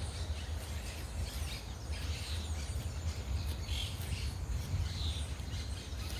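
Wild birds chirping repeatedly in short calls, over a steady low rumble.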